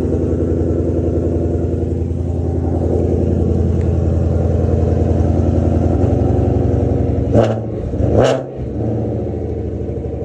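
Ford Mustang Mach 1's 5.0 V8 with a full aftermarket exhaust idling cold and steady. Near the end it takes two quick throttle blips a second apart, each a sharp rise and fall in pitch, before dropping back to idle.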